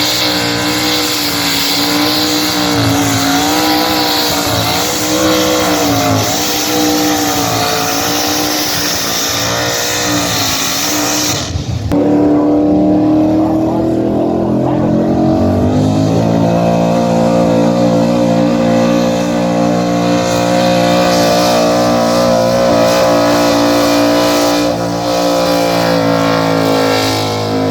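A truck-or-tractor pull vehicle's engine running loudly, its pitch wavering up and down over a bright hiss. Almost halfway through it cuts abruptly to a steadier engine note without the hiss, which climbs slightly a few seconds later and then holds.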